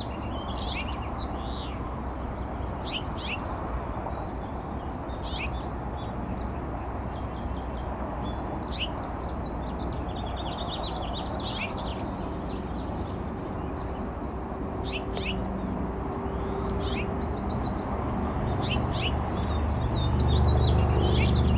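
Tits calling: short high chirps and quick trills repeated every second or two, over a steady low rumble that swells near the end.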